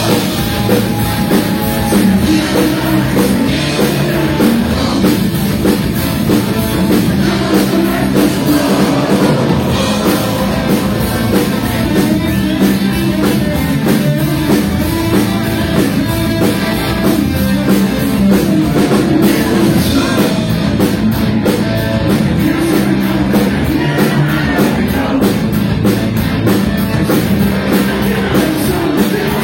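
Loud rock music with drums, distorted instruments and singing, playing without a break.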